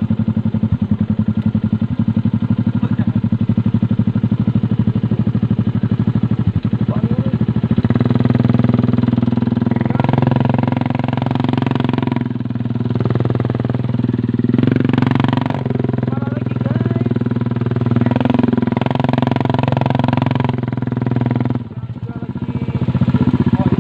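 Motorcycle engine running under load on a climb, pulsing evenly at first, then louder from about eight seconds in, its pitch rising and falling with the throttle, with a short drop near the end.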